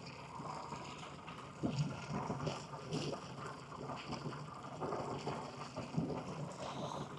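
Faint outdoor background of wind on the microphone, with a few brief faint sounds like distant voices.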